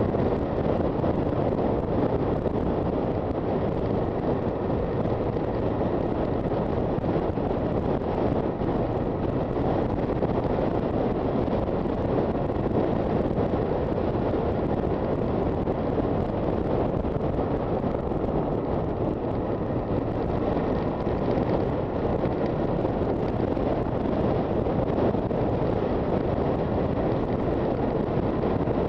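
Steady wind rushing over the microphone of a Honda FT400 single-cylinder motorcycle riding at road speed, with engine and road noise mixed in beneath.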